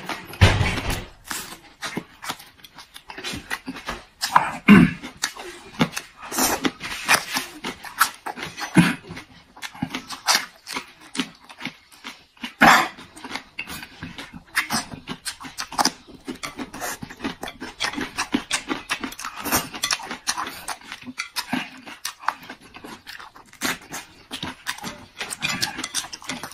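Close-miked chewing of raw chili peppers, with many short, irregular crunches, wet smacks and slurps.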